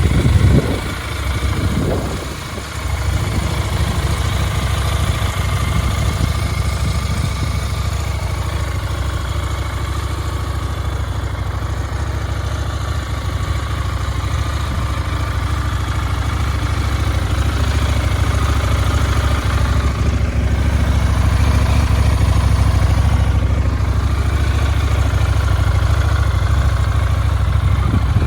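2026 KTM 990 Duke's parallel-twin engine idling steadily, with a brief change in level in the first few seconds.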